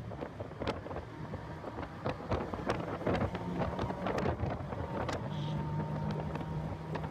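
Heavy wind buffeting on the microphone in gusts, over the steady drone of a car's engine at track speed.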